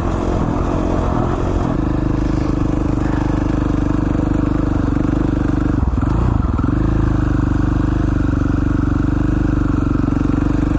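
A 2017 KTM 450 XCF's single-cylinder four-stroke engine running steadily under way. It holds an even pitch, dips briefly about six seconds in, then comes back up.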